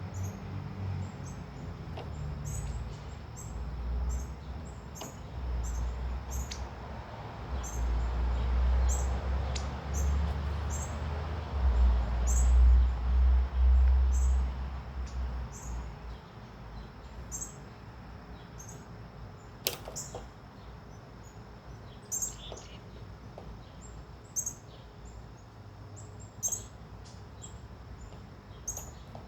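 Small songbirds at a feeder chirping: many short, high chirps, a few a second, throughout. A loud low rumble runs under them for roughly the first half, then drops away.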